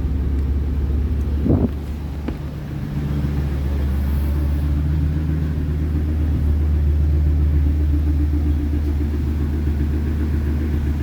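Ford Excursion engine idling steadily through an exhaust fitted with a Flowmaster FX muffler, ZZP resonator and electric cutout, a low rumbling drone. A short sharp sound comes about a second and a half in, after which the exhaust note dips briefly and then comes back up.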